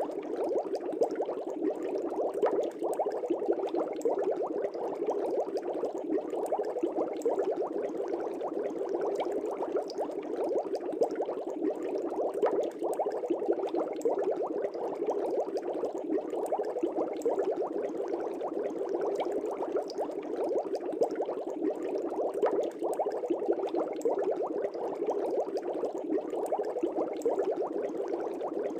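Steady, continuous bubbling of air bubbles in a fish tank, a dense stream of small pops and gurgles that keeps an even level throughout.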